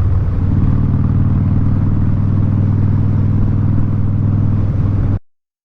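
Harley-Davidson Street Bob's V-twin engine with Vance & Hines exhaust running steadily while cruising, a deep even exhaust note. It cuts off abruptly near the end.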